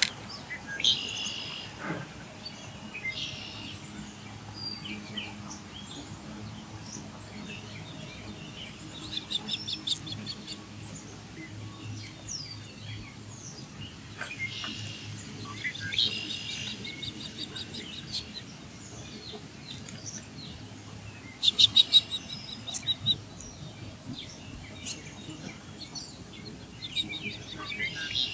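Birds chirping and calling on and off, with several short trills; the loudest is a quick run of sharp notes about three quarters of the way through. A low steady hum lies underneath.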